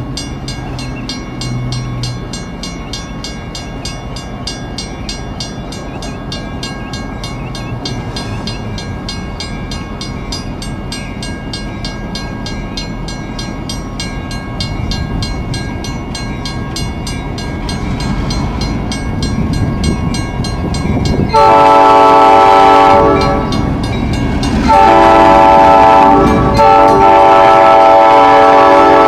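Diesel locomotive approaching with its bell ringing steadily over a rumble that grows louder, then its air horn sounds a loud blast about 21 seconds in, followed by a longer blast and another from about 24 seconds on.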